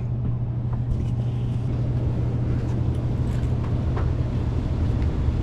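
Steady low mechanical hum of running ventilation machinery, with a few faint light taps and knocks.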